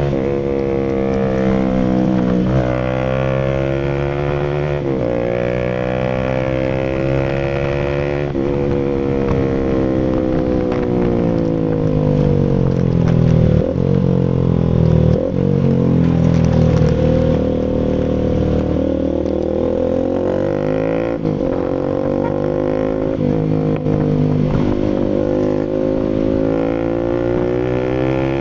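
Bajaj Rouser RS200's single-cylinder engine running through an SC Project full aftermarket exhaust. The engine pitch rises and falls repeatedly as the revs change, with a couple of sharp dips about halfway through.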